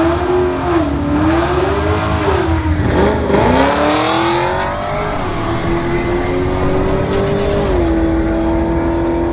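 A car engine revving up and down several times, then holding a steady high speed that drops a little near the end.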